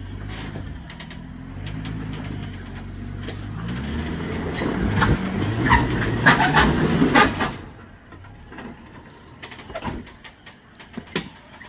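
An off-road vehicle's engine revs up as it climbs a rock ledge, with tyres crunching and knocking on rock. The throttle comes off suddenly about two-thirds of the way through, leaving a quieter idle with a few scattered knocks.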